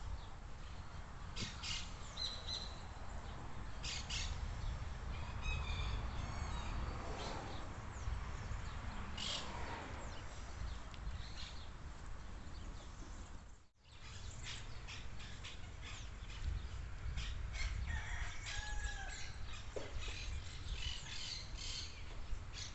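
Birds calling and chirping over a low, steady rumble of outdoor background noise, with no chainsaw running. The sound drops out briefly about two-thirds of the way through.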